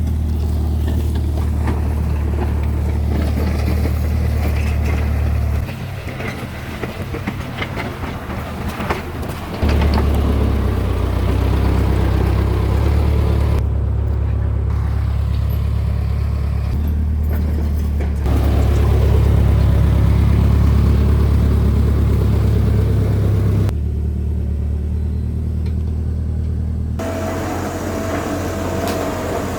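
Heavy diesel equipment engines running with a loud, steady low drone that changes abruptly several times.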